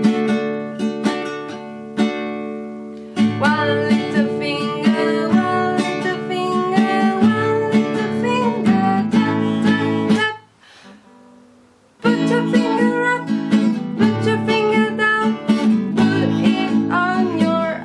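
A children's song sung over a strummed acoustic guitar. The music drops out for about a second and a half past the middle, then starts again.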